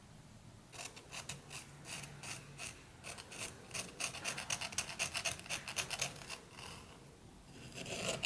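Quick, repeated rasping strokes of hand abrasive work on the rusty cast-iron nail puller, several strokes a second. The strokes start just under a second in and ease off after about six seconds.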